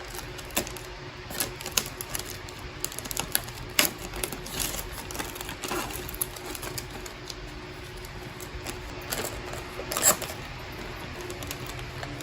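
Irregular light clicks and taps of plastic parts being handled as a Cadillac CUE touchscreen is fitted onto its housing and pressed into place, with sharper clicks about four seconds in and about ten seconds in.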